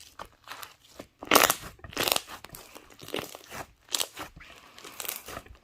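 Irregular crinkling and crunching, like material being crumpled or handled in a small room, with the loudest crunches about a second and a half in.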